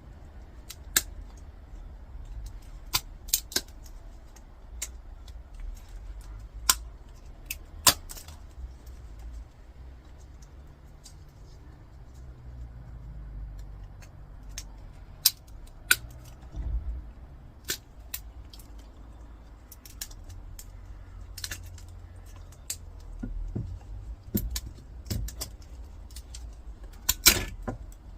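Hand tools prying at a small switch casing to break it open: irregular sharp clicks, taps and small metallic rattles, with a louder cluster of knocks near the end.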